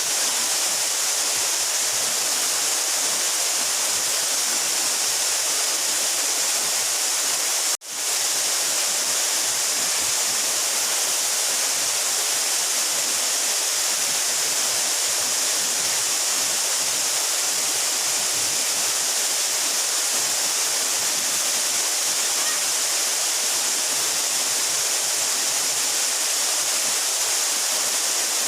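A 12-metre mountain waterfall: water falling and splashing in a steady, even rush, with a hiss on top. About eight seconds in there is a split-second dropout in the sound.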